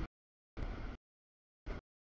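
Double-stack container freight train rolling past, a noisy rumble heavy in the low end. It is heard only in short snatches that cut off abruptly into dead silence: the audio feed is dropping out.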